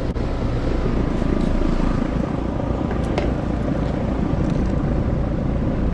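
Heat pump outdoor unit running, its compressor giving a loud, rough, steady drone with a low hum underneath. The compressor is judged to be about to fail and in need of replacement.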